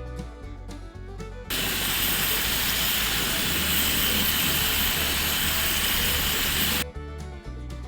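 Bacon sizzling in a cast-iron skillet: a loud, steady hiss that cuts in about a second and a half in and stops abruptly near the end. Country background music plays before and after it.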